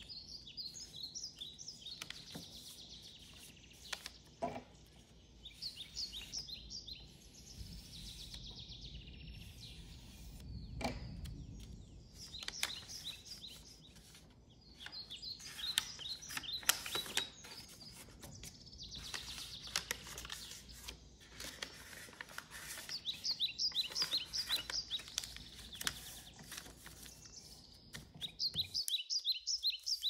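A small bird sings in quick, high chirping phrases that recur every few seconds, most densely in the last third. Under it are occasional soft rustles and taps of copy paper being folded and creased by hand.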